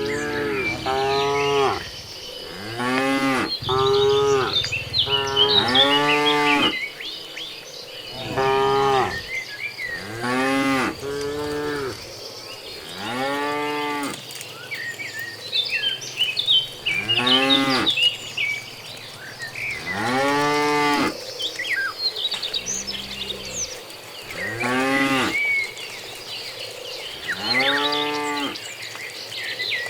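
A herd of cattle mooing, more than a dozen long moos one after another, each rising then falling in pitch.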